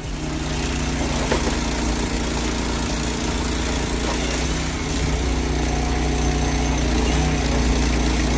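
A heavy machine's engine running steadily, with a sharp knock about a second in.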